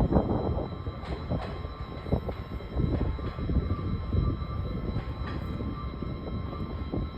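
Train noise: an uneven low rumble with scattered knocks and a faint steady high whine.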